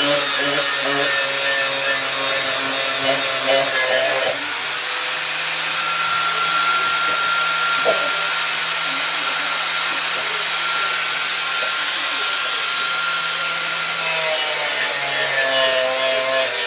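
Electric grinder running as it grinds the steel blade of an itak (bolo) to sharpen it. About four seconds in the motor's pitch steps up and the grinding noise thins as the load eases, and near the end the pitch drops back as the wheel bears on the blade again.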